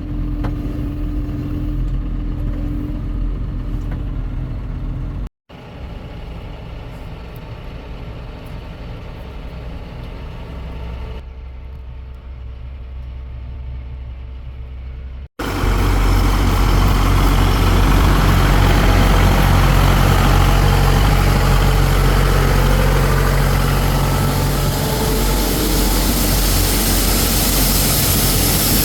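Heavy farm machinery engine running steadily, in three clips split by abrupt cuts. The last clip is much louder, with a strong rushing noise over the engine hum.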